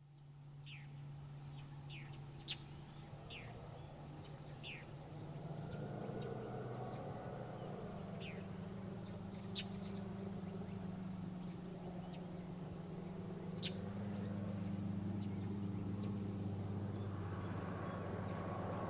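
Birds chirping: short, high, falling whistled notes every second or so, with a few sharp high chips, over a steady low hum.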